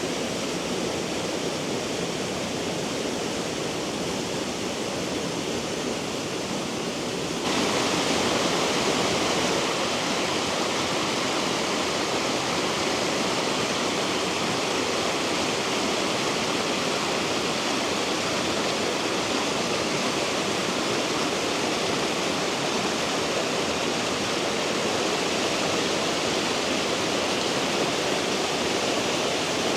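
Water from a small hill-stream waterfall rushing and splashing in a steady hiss. About seven seconds in it turns suddenly louder and brighter, then holds steady.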